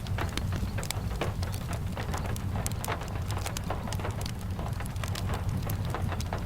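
Steady rain falling, with a constant low rumble underneath and many short sharp ticks and pops scattered through it.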